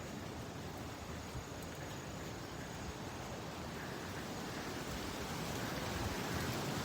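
Steady rushing outdoor noise, growing slightly louder about five seconds in.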